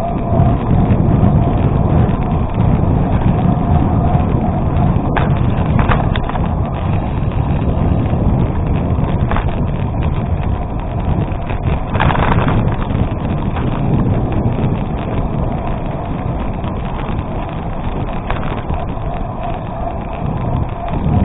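Steady wind buffeting on the microphone over the rumble of a gravel bike's tyres rolling, with a few sharp knocks from the bike going over bumps.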